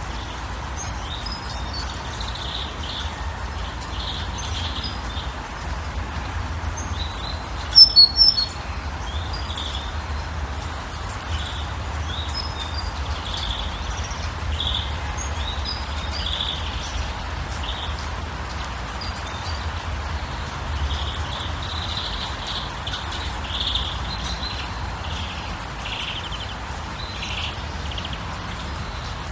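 Wild birds chirping and calling over a steady rushing background noise, with a loud burst of sharp, high chirps about eight seconds in.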